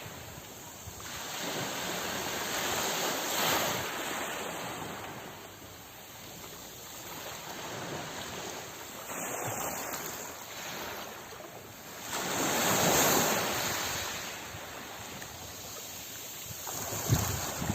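Sea waves surging in and washing back in slow, rising and falling swells; the two biggest come a few seconds in and about two-thirds of the way through.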